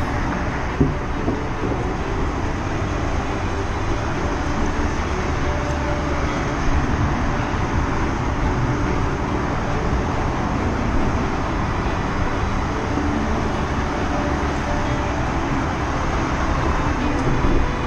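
Steady rumbling ride noise on a bicycle-mounted microphone: wind and road noise mixed with passing traffic, with a couple of brief knocks.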